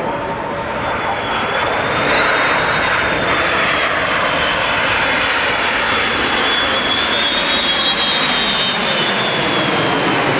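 Jet airliners making a low flypast in landing configuration with the undercarriage down: a steady engine roar with a thin high turbine whine that drifts slightly in pitch, growing louder about two seconds in.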